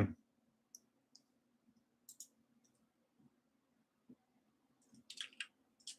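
Faint computer mouse clicks: a few single clicks spread out, then a quick run of clicks near the end, over a faint low hum.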